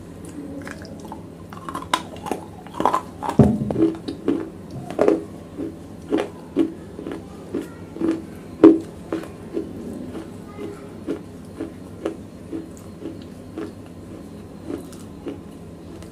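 Close-miked chewing of wet black slate pieces: sharp crunches as pieces are bitten, settling into steady rhythmic chewing about two strokes a second. The loudest crunch comes about nine seconds in, and the chewing grows softer and sparser near the end.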